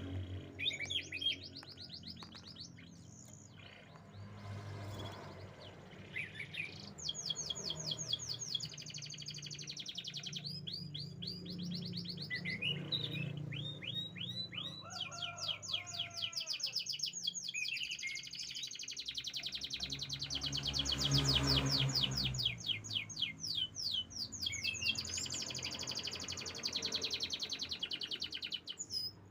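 Domestic canary singing: long rolling trills of very fast repeated high notes, broken by short pauses and a few lower, sliding whistled notes, over a low steady hum.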